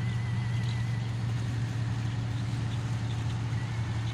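Scania 141's 14-litre DS14 turbo V8 diesel running steadily with a deep, even hum, holding the same pitch throughout.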